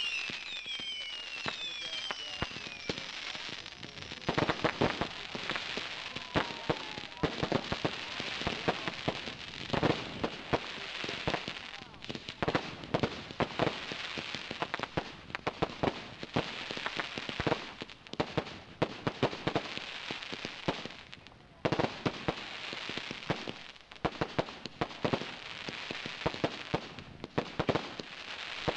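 Fireworks going off: falling whistles in the first couple of seconds, then a dense, irregular run of bangs and sharp crackling pops over a steady high fizz.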